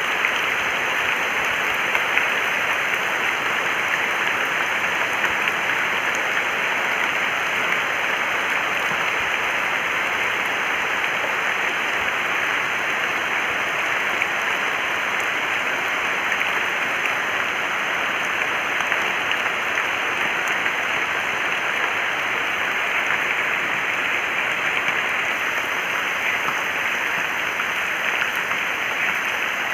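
Water rushing in a steady, even rush that does not change.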